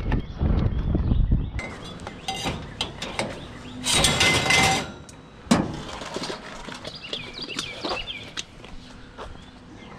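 Scrap being handled and loaded onto a full truck: scattered knocks and clinks, a loud scraping noise about four seconds in and one sharp knock about a second later.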